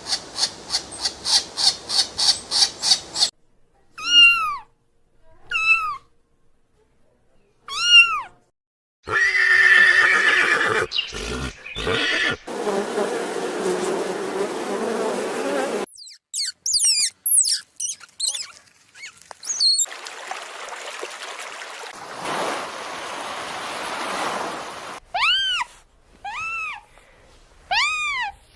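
A succession of different animal calls cut one after another: first a fast run of pulsed calls, then short arched chirping calls repeated at intervals, a rough, harsh stretch in the middle, and more arched calls near the end.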